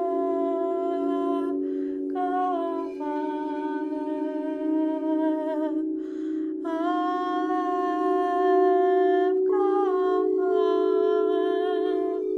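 A woman's voice sings long held tones in four sustained phrases with short breaks between them, over a steady drone of singing bowls.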